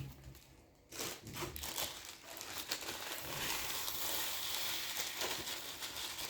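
Dry seed and crumbly bird-food mix being stirred and tossed by hand, a continuous rustling hiss full of small clicks, starting about a second in.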